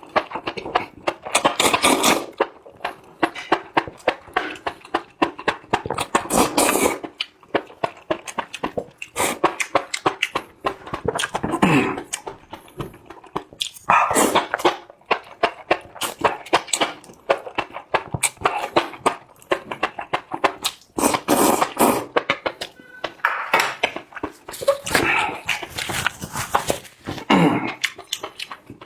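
Close-miked mouth sounds of someone eating super-spicy enoki mushrooms: slurping and chewing in dense clusters of wet clicks and smacks, broken by short pauses.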